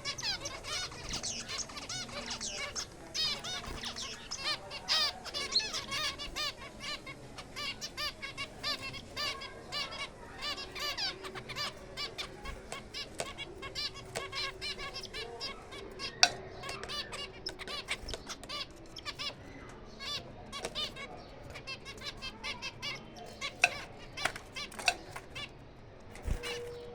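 A flock of small aviary finches chirping and twittering continuously in many quick, overlapping calls, with a few sharp clicks; the loudest click comes about sixteen seconds in.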